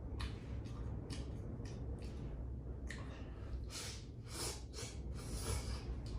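A person eating: short clicks and taps, with two longer breathy sniffs about four and five and a half seconds in, over a steady low rumble of wind.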